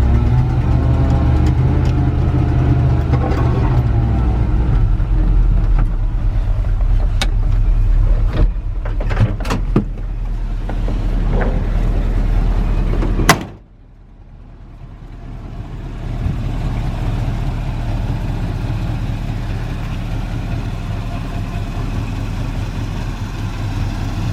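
1977 GMC K25 pickup engine running after a spring startup from winter storage, with a few sharp clicks partway through. About 13 seconds in, a sharp bang is followed by a sudden drop in the sound, which builds back within a couple of seconds to a steady idle.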